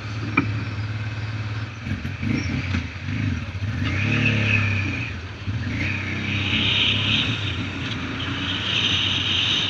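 Motorcycle engine running, the revs rising and falling briefly about four seconds in.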